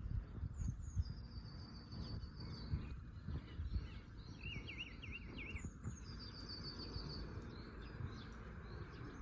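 Small songbirds chirping and singing: repeated quick sweeping chirps and two fast high trills, over a low, uneven background rumble.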